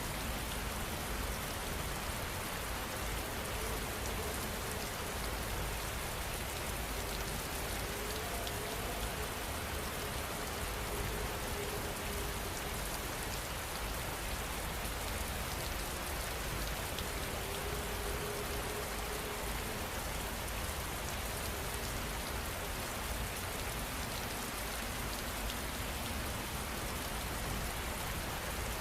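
Steady heavy rain falling and pattering on surfaces, an even hiss that does not let up.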